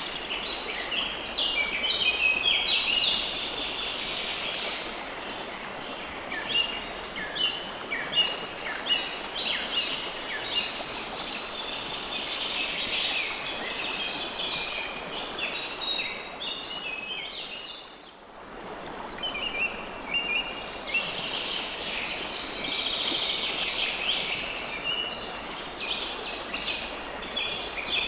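Flowing river water rushing steadily under a busy chorus of small birds chirping. Everything dips briefly about two-thirds of the way through, then resumes.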